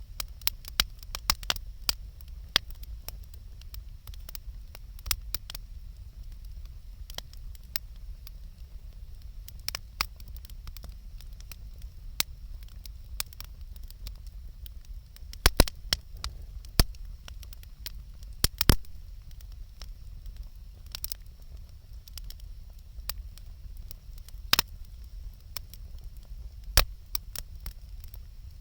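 Wood campfire crackling and popping: irregular sharp snaps throughout, with a cluster of louder pops about halfway through and another loud pop near the end, over a low steady rumble.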